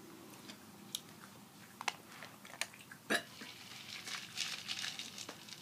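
Crunchy chewing of tortilla chips, with a few sharp isolated clicks in the first half and denser crackly crunching in the second half.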